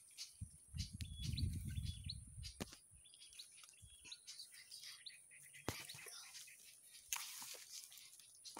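Faint, short, high bird chirps repeating about every half second, with a low rumble about a second in and a rustle of leaves near the end.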